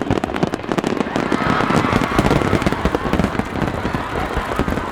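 Aerial firework shells bursting in a dense, rapid volley, one bang running into the next with crackling in between, as in a starmine barrage.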